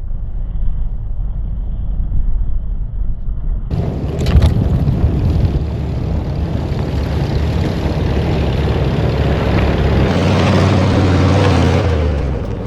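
Engine and running noise of a 1958 VW bus on a rough dirt trail, a steady low rumble with wind on the microphone. The sound changes abruptly about four seconds in to a louder, hissier rush, and again near the end.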